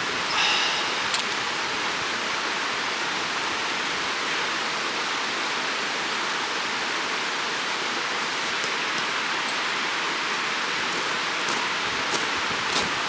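A stream of running water rushing steadily over its bed, with a short louder rustle about half a second in and a few faint clicks near the end.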